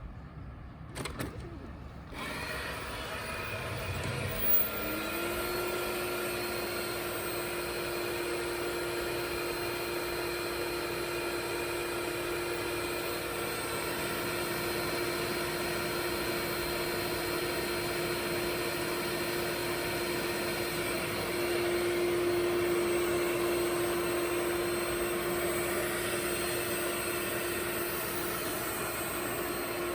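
Ecovacs Deebot T10 Turbo robot vacuum starting up about two seconds in, its motor spinning up with a rising hum. It then runs with a steady whir and constant hum, getting a little louder for a few seconds past the middle.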